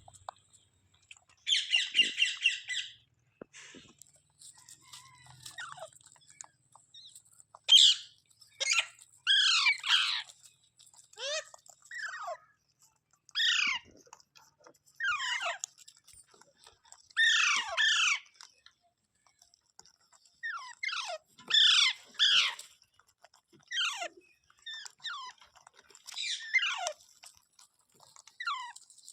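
Rose-ringed (Indian ringneck) parakeet giving a string of shrill calls that slide down in pitch, one every second or two, with a harsher buzzy call near the start.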